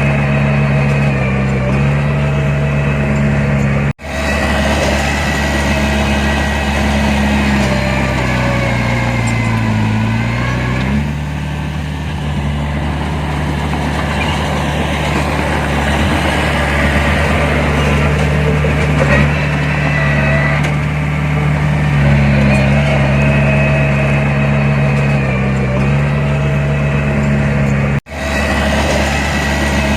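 Heavy construction machine's diesel engine running steadily under work, its pitch sagging and dropping about ten seconds in, then holding steady. The sound cuts out abruptly twice, for a moment each time.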